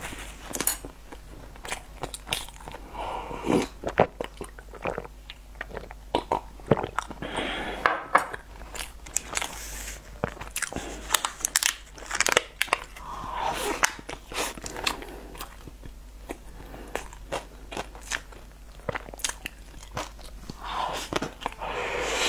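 Close-miked mouth sounds of eating chocolate sponge cake: biting and chewing, with many sharp wet clicks and smacks.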